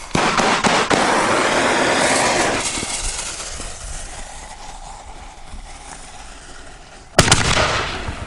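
Consumer canister firework shells fired from a mortar tube: a loud hissing, crackling rush that starts suddenly and fades away over several seconds, then a sharp bang about seven seconds in followed by more hiss.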